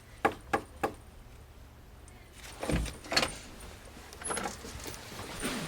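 Three quick knocks on a wooden door in the first second, then the door being opened about two and a half seconds in.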